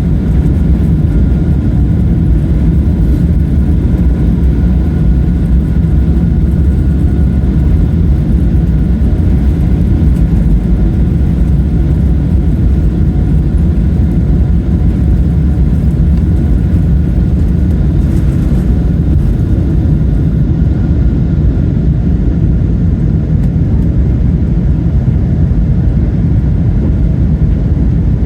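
Steady, loud drone of a Boeing 777-300ER's GE90-115B jet engines and airflow heard inside the passenger cabin, a deep rumble with a faint higher whine over it and no change in pitch.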